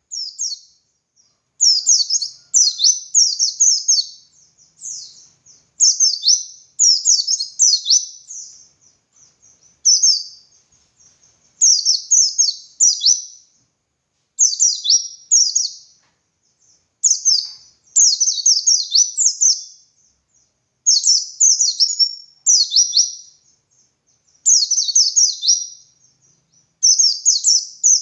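White-eye (pleci dakun) singing loudly and continuously: high, rapid phrases of quick downward-sweeping notes, one after another with short pauses between them.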